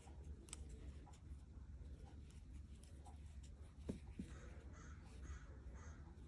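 Near silence: quiet room tone with faint bird calls and a soft knock about four seconds in.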